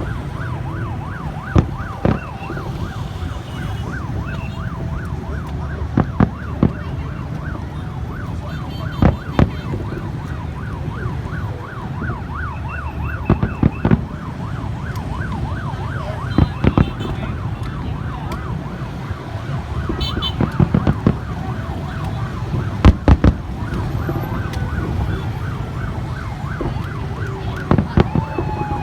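A siren wailing rapidly up and down, several sweeps a second, over a steady low rumble. Firework explosions bang every few seconds, single or in quick clusters, the loudest cluster near the end.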